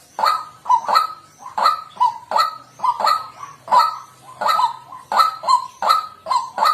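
White-breasted waterhen calling, a harsh honking note repeated about two to three times a second, often in quick pairs, in an unbroken run.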